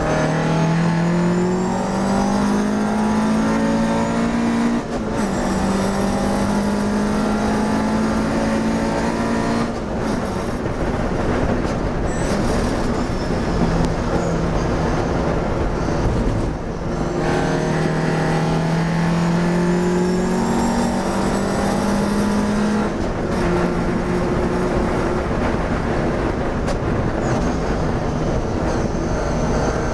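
Classic racing car's engine heard from inside the cockpit under hard acceleration. Its pitch climbs and dips briefly at each gear change, about four times.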